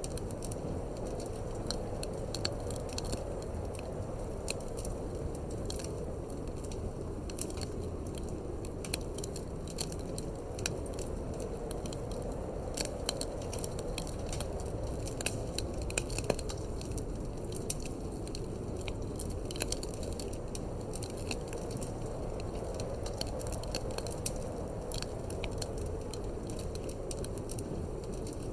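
Wood fire crackling in a fireplace, with frequent irregular small pops and snaps over a steady low rumble of wind.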